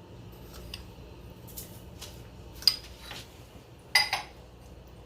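Kitchenware clinking while food is being seasoned: a few light ticks, then two sharp ringing clinks of a utensil against a dish or pot, the louder one about four seconds in.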